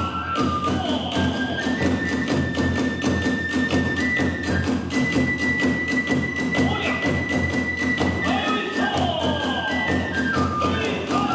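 Kagura hayashi ensemble playing a fast, driving passage: drum strokes and hand cymbals in a quick, steady beat under a bamboo flute holding long high notes that step from pitch to pitch.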